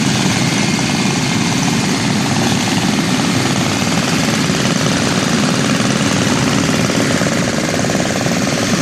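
About twenty vintage Briggs & Stratton single-cylinder engines, mostly Model N's, all running at once, their exhausts blending into a steady, dense chatter of overlapping firing beats.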